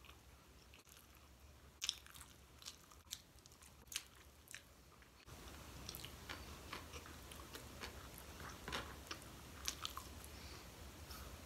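Chewing maki sushi rolls: soft, scattered wet mouth clicks and smacks.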